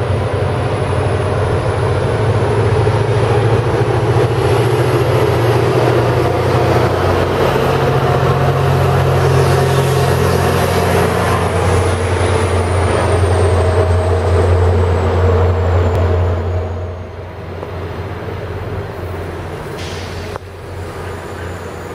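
A passenger train passing on the tracks: a loud, steady rumble with a thin high whine that rises and then falls. About three-quarters of the way through the sound drops sharply to a lower steady rumble as the train moves off.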